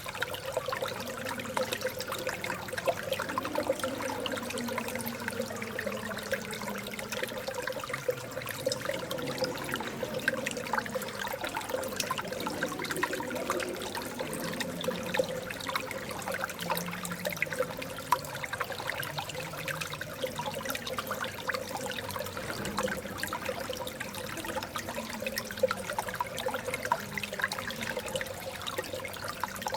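Water of a small artificial stream babbling and trickling steadily, full of small splashes and drips.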